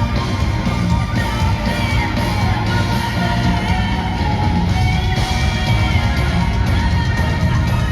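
Gothic metal band and orchestra playing live, loud and dense without a break.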